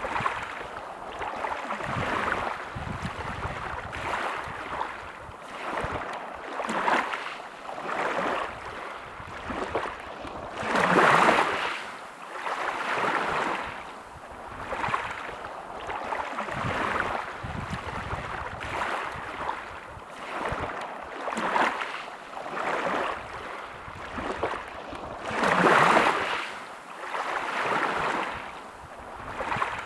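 Sea waves breaking and washing on a shore, in rolling surges a couple of seconds apart, with two bigger waves about eleven seconds in and near the end.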